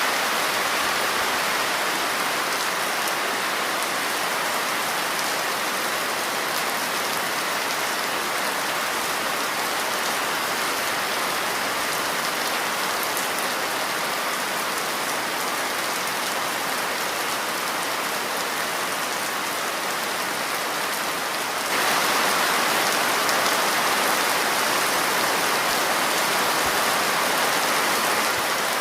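Steady rainfall, a dense even hiss of rain on surfaces, which turns abruptly a little louder about three-quarters of the way through.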